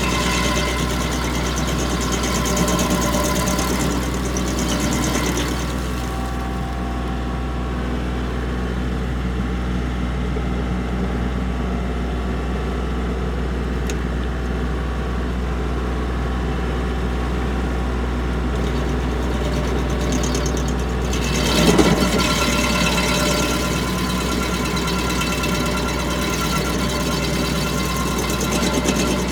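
Tractor engine running steadily while driving a three-point-hitch stump grinder, whose cutter chews into a hardwood stump. The grinding is heavy at first, eases off through the middle, then picks up again with a short loud surge about two-thirds of the way through.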